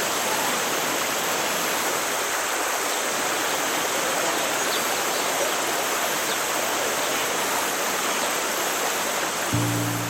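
Forest stream running steadily, a continuous even rush of water. Near the end, low sustained music notes come in.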